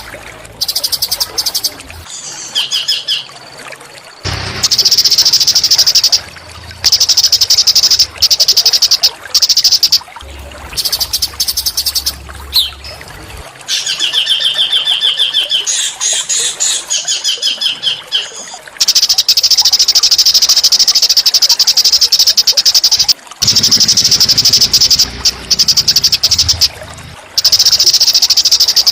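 A small songbird singing high, rapid buzzing trills in repeated bouts, some short and some running several seconds, with a run of chattering notes about midway. It is a training song of the kind played to magpie robins to get them singing.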